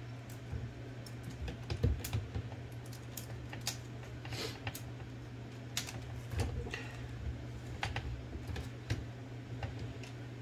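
Irregular small clicks and taps of metal typewriter carriage parts and bearings being handled and fitted, with an Olivetti Linea 98's carriage being assembled. A steady low hum runs underneath.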